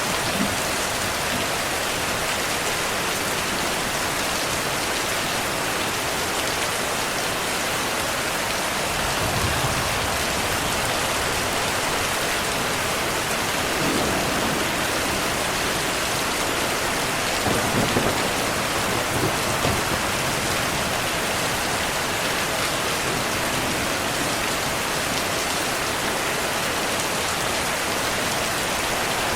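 Steady heavy rain falling on a surface, with soft low thunder rumbling a few times, most noticeably around ten, fourteen and eighteen seconds in.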